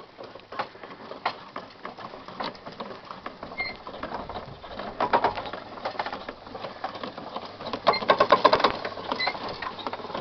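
Old hand-cranked Cooch and Sons potato sorter in motion, its mechanism clattering and rattling in quick, uneven clicks, louder in bursts about halfway and again near the end.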